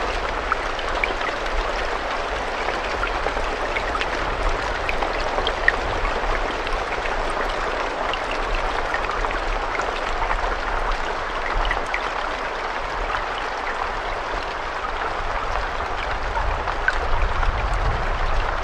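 Steady rainfall with many individual drops ticking in a continuous hiss, over a low rumble.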